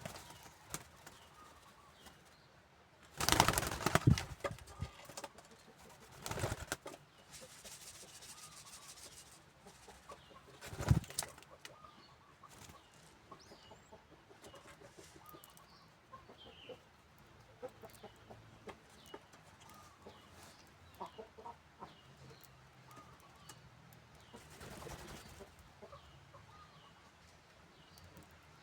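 Doves' wings flapping in a few loud flurries, the longest about three seconds in, with faint short high chirps from birds scattered throughout.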